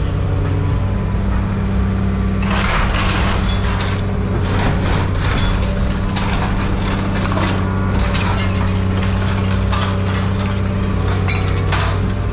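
A heavy diesel machine runs steadily while scrap metal is handled, with several irregular bursts of crunching and clattering.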